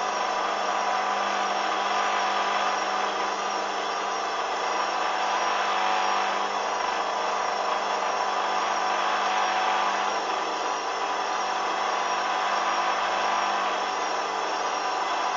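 Hoover washing machine's motor and drum running steadily on the first intermediate spin, with a high whine that wavers slightly.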